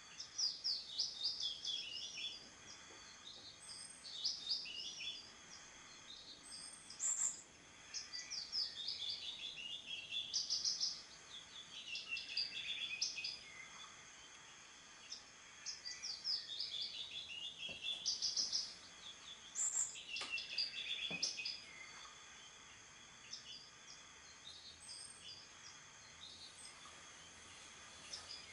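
Songbirds singing: bright trilled phrases that sweep downward, repeated every few seconds, with a few short high chirps between them. The song grows sparser and quieter over the last few seconds.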